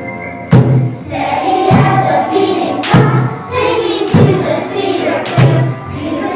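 A group of children singing together, with a heavy thump marking the beat about every second and a quarter.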